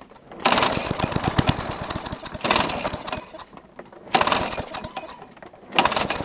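Push mower's small engine being pull-started four times, each pull a sudden cranking rattle that sputters and fades without the engine catching. The engine has been choked with dirt through its carburetor and is trying but not restarting; the owner thinks it is dead.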